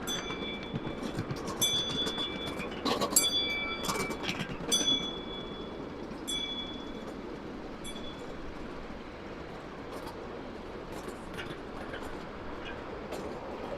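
Miniature ride-on railway train running on its track: short high squeals and clicks of wheels on rail through the first half, then a steady rumble.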